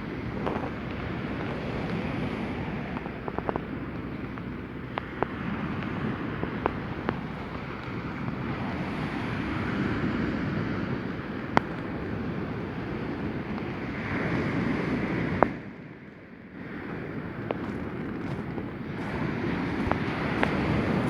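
Sea surf breaking and washing onto a pebble beach, swelling and easing every few seconds, with wind buffeting the microphone and scattered sharp clicks.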